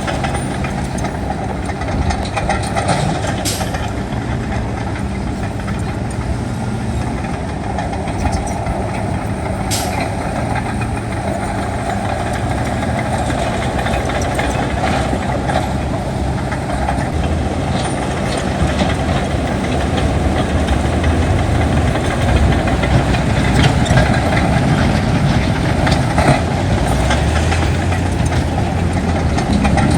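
Heavy diesel earthmoving machinery running steadily, with a few sharp metallic clanks. The engine grows gradually louder and deeper in the second half.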